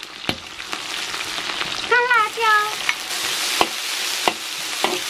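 Hot oil sizzling in a wok as Sichuan peppercorns and dried red chillies fry and are stirred, with a few sharp clinks of the metal spatula against the wok. About two seconds in, two short high-pitched calls sound over the sizzle.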